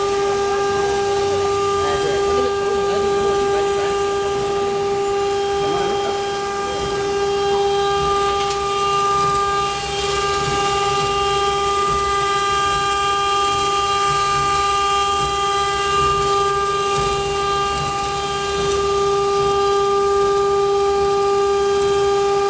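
Stone-engraving CNC router's spindle running at speed: a steady high whine that holds one pitch, over a rumble and hiss from the machine.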